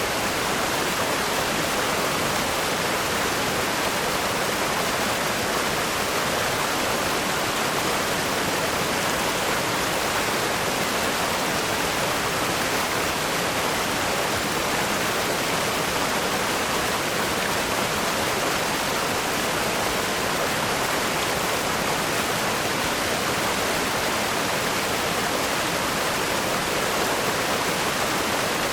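River rapids rushing over rocks: a steady, dense roar of white water with no breaks or changes.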